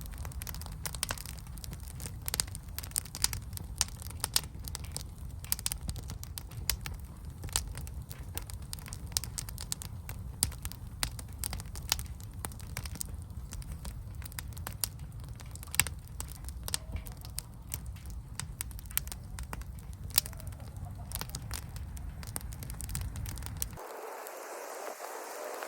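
Wood fire crackling, with frequent sharp pops and snaps over a low steady rumble. Near the end the sound cuts abruptly to a softer, even hiss.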